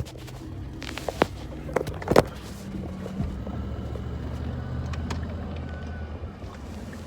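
Large SUV's engine running under light throttle during a U-turn, its low hum stepping up in pitch and holding about two to three seconds in. A few sharp knocks in the first two seconds.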